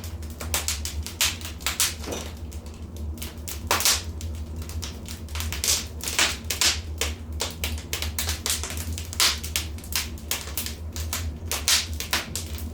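Wood fire crackling in a fireplace, with irregular sharp pops and snaps, several a second, over a steady low rumble.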